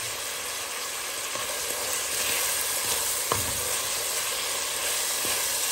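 Flaked saltfish with onions and peppers sizzling in a pot, with a steady frying hiss as it is stirred, and one knock of the utensil against the pot about three seconds in.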